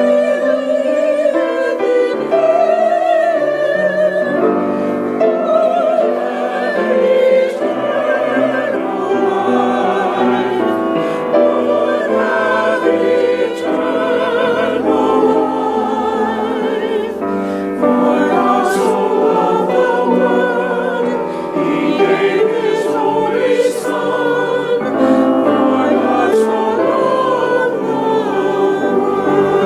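A choir singing with vibrato, accompanied by piano.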